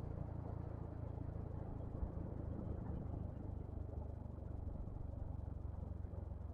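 Steady low rumble of riding noise, engine and wind, picked up on a Yamaha XMAX scooter while under way.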